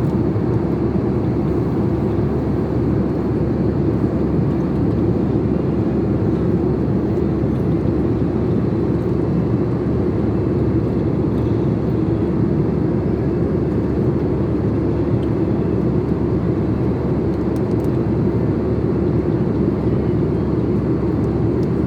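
Steady noise inside a passenger airplane cabin in flight: an even, unchanging low rush of engines and airflow.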